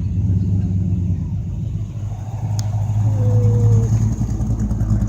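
A car's engine rumbling loudly and deeply as it drives slowly past, swelling to its loudest a little after the middle.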